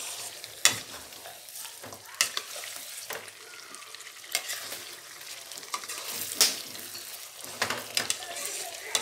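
Chicken karahi masala sizzling and frying in a steel karahi. It is stirred with a perforated metal spoon that scrapes and clicks against the pan every second or two.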